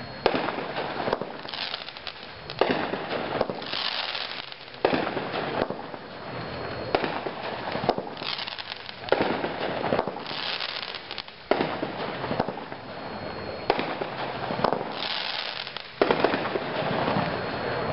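Consumer fireworks cake 'Mexican Wave' firing its shots, one sharp bang about every two seconds. Each shot is followed by hissing and crackling.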